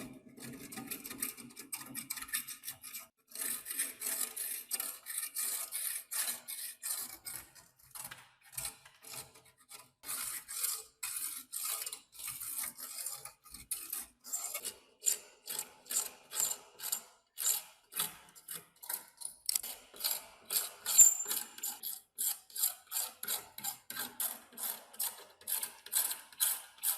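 Rasping hand-tool strokes on the rusty metal of an antique fan, repeated stroke after stroke. They come rapidly at first and settle into about two strokes a second in the second half.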